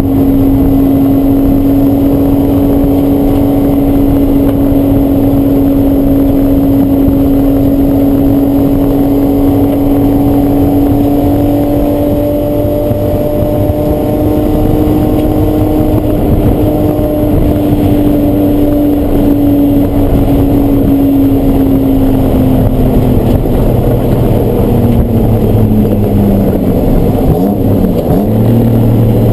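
Race car engine running hard at steady high revs, its pitch creeping up slowly for the first half. Over the last several seconds it comes off the throttle and the revs fall away steeply as the car slows.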